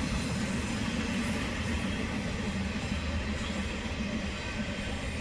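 Long intermodal freight train rolling steadily past, its cars rumbling and wheels running on the rails at an even level.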